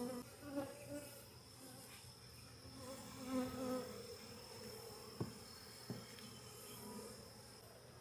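Honeybees buzzing in a faint, wavering hum at an open hive crowded with bees. Two short clicks come a little after five seconds in and again about a second later.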